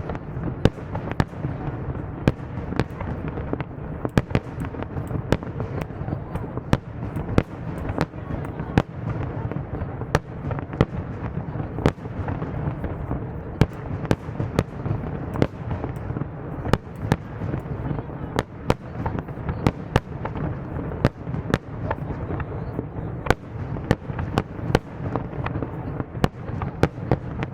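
Fireworks display going off: a dense, irregular string of sharp bangs and crackles, one or two a second, over a continuous low rumble of shells bursting.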